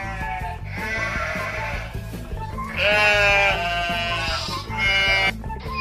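Sheep bleating several times, each bleat a wavering call about a second long, over background music.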